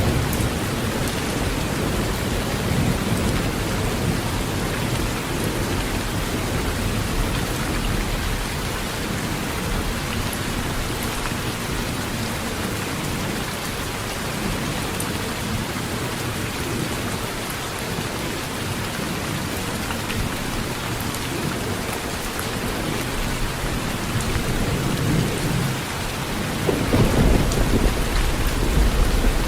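Heavy rain drumming steadily on an old tin roof, with low thunder rumbling away at the start and a fresh rumble swelling up near the end.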